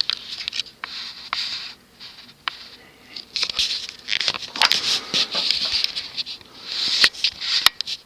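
Close handling noise: uneven rustling and scraping, with scattered sharp clicks and taps, loudest in the second half.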